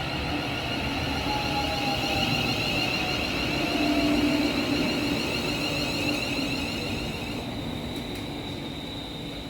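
Electric passenger train running into the platform, its traction motors whining with a tone that falls slowly in pitch as it slows, over steady running noise.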